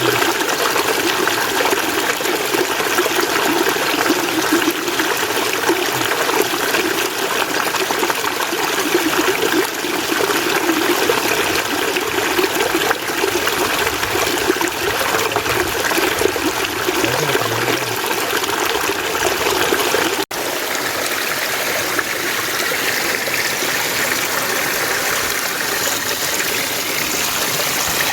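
Mountain stream flowing steadily. About twenty seconds in, the sound drops out for an instant and comes back lighter, with less of its deep rush.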